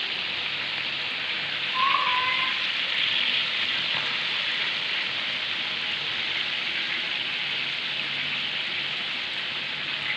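Chicken pieces sizzling in hot oil in a karahi, a steady frying hiss. A short squeak about two seconds in.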